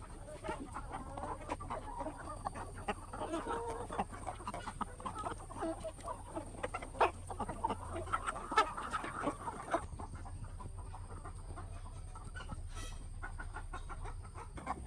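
A flock of chickens clucking and calling over one another, with a couple of sharp clicks or knocks in the middle; the calling thins out over the last few seconds. A steady low hum sits underneath.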